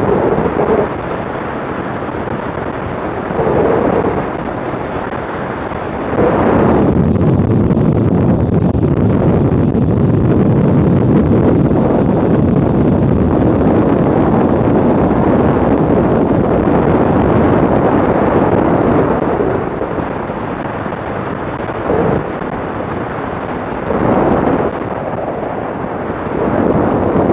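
Wind rushing and buffeting over an action camera's microphone on a moving motorcycle, a steady rumbling noise that grows louder for a long stretch in the middle and swells briefly a few other times.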